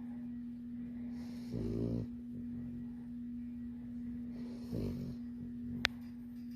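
Labrador puppy snoring in her sleep: two snores about three seconds apart, each with a breathy hiss. A steady hum runs underneath, and a sharp click sounds near the end.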